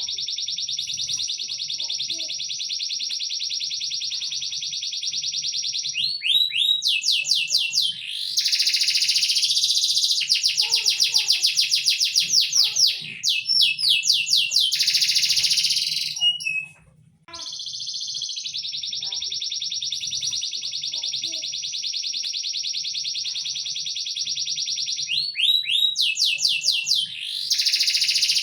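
A songbird singing a looped tutor song: a long, steady, high trill of about six seconds, then a run of quick sweeping notes and buzzy phrases. After a short break the same sequence starts over.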